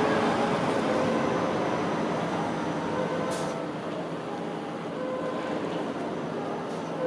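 Train running on the rails, a steady rumble that slowly eases in level, with a short high hiss about three seconds in.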